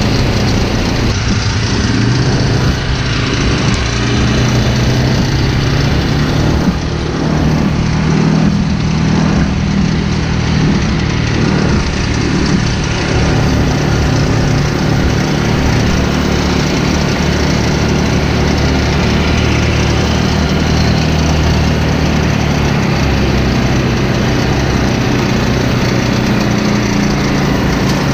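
Dirty Hand Tools pull-behind brush mower with its engine running steadily while cutting grass, the engine note wavering slightly now and then.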